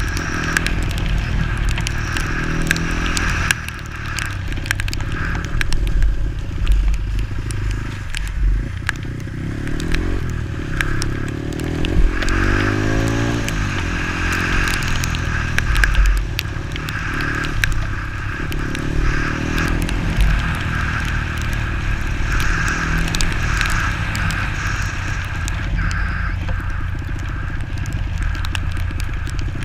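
Bored-up Kawasaki KLX 150's single-cylinder four-stroke engine running under way, its pitch rising and falling as the rider works the throttle and gears, with steady road and wind noise and many small clicks over it.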